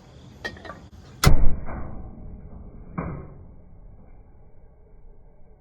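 A couple of light clicks, then a very loud sudden thud that dies away over about a second, and a second, smaller thud about two seconds later.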